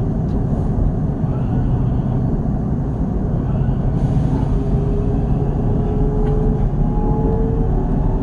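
Gimpo Goldline light-metro train running, heard from inside the car: a steady low rumble of wheels and running gear on the track. A faint motor whine comes in about halfway through.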